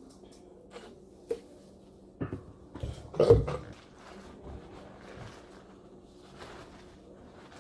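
Table and eating noises from a seafood boil meal: scattered clicks and handling sounds, with a louder clatter and rustle about three seconds in.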